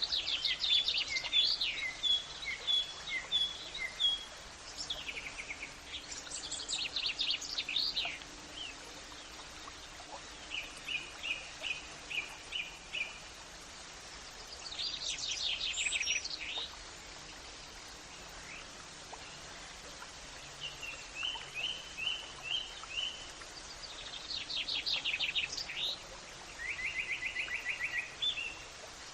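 Songbirds singing in short phrases of rapid chirps and fast trills, a new phrase every few seconds, over a faint steady outdoor background hiss.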